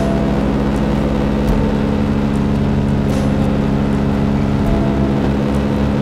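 Motorcycle engine running at a steady cruising speed while riding, with its even low hum holding throughout.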